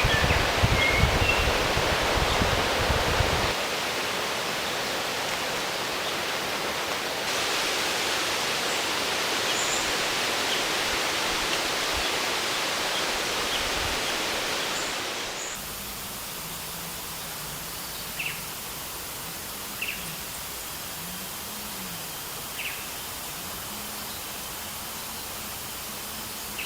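Rainforest ambience: a steady rush of running water, dropping abruptly quieter about fifteen seconds in. A few short bird chirps come through near the start and three times in the second half.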